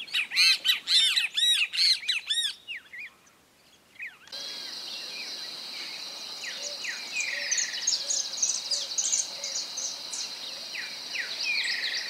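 A bird calling with a quick run of arched notes, which stops about three seconds in. After a short pause comes woodland ambience: a steady high insect drone with many scattered bird chirps.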